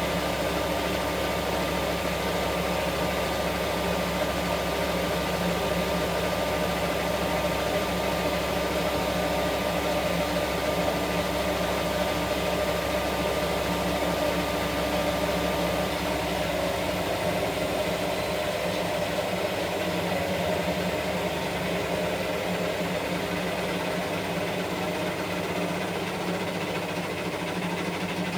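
Washing machine running with a steady mechanical hum and vibration. A high whine stops a little past halfway, and soon after, the deep low rumble drops away.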